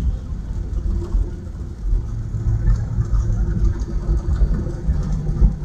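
Jet airliner cabin noise: a steady low rumble with a constant engine hum, heard from inside the passenger cabin as the plane rolls on the ground after landing.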